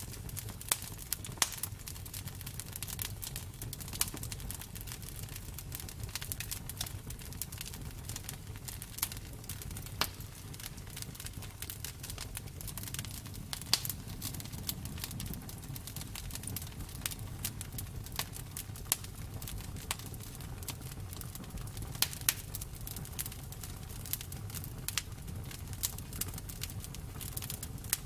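Bonfire crackling: irregular sharp pops and snaps over a low, steady rumble of the burning wood.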